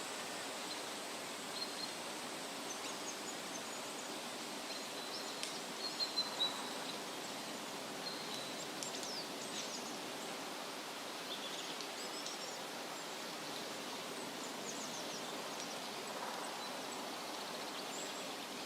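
Steady wind rustling through leaves, with short, high bird chirps scattered throughout and a quick run of three louder notes about six seconds in.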